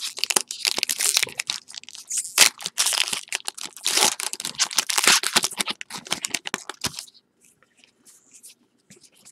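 Trading card pack wrapper being torn open and crinkled, a dense crackling for about seven seconds, then only faint rustling of cards being handled.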